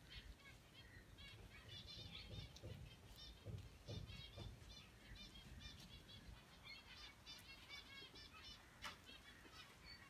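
Faint bird chirping: quick runs of high twitters, with a few low bumps around the middle.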